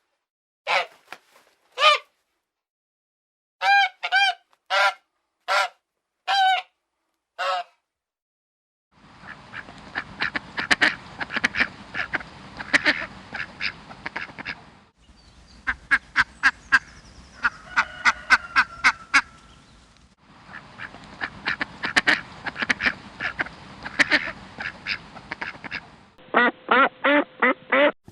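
Ducks and geese calling: about seven separate honking calls in the first eight seconds, then a string of clips of a flock quacking rapidly and repeatedly over background noise, with abrupt cuts between clips.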